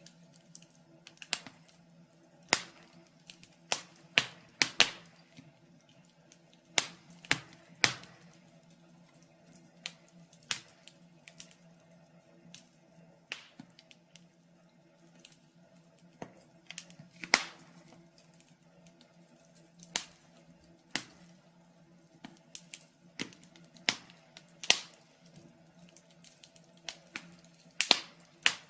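Wood fire in a fireplace crackling: irregular sharp pops and snaps from the burning logs, sometimes several close together and sometimes seconds apart, over a faint steady hum.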